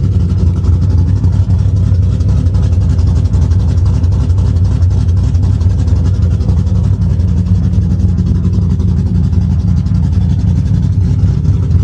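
2007 Mustang GT's 4.6-litre V8 running steadily at idle through a full 3-inch exhaust with long-tube headers, an X-pipe and Cherry Bomb glasspack mufflers with turndowns: a loud, deep exhaust note.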